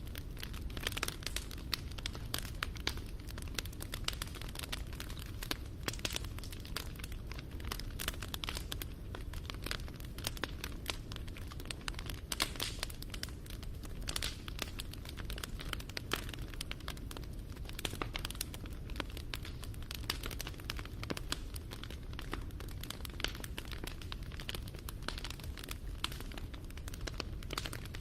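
Wood fire crackling and popping: dense, irregular sharp snaps over a low steady rumble.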